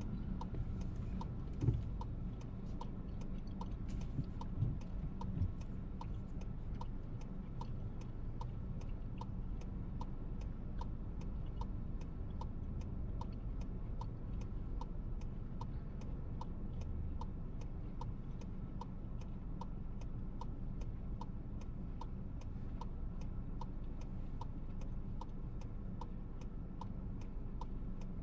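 Car turn-signal indicator ticking evenly, about one and a half clicks a second, over the steady low rumble of the VW T-Roc cabin while driving.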